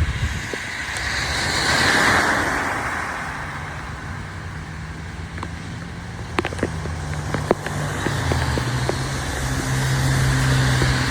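Rain with road traffic: a vehicle swishes past on the wet road about two seconds in, a few sharp drips or taps sound in the middle, and a low steady engine hum comes in during the second half.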